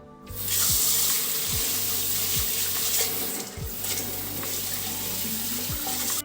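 Steady rush of running water, starting just after the beginning and cutting off abruptly at the end, with soft background music underneath.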